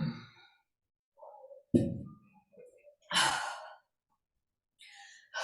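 A woman sighing and exhaling hard as she catches her breath after strenuous exercise: a few short breathy exhales, the clearest about two and three seconds in, with quiet between.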